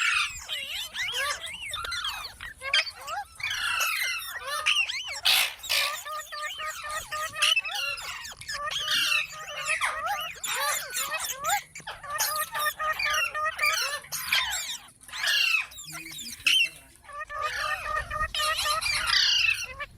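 Several Alexandrine parakeets (pahadi tota) calling: many quick chirps and gliding squawks overlapping, with a few louder harsh squawks.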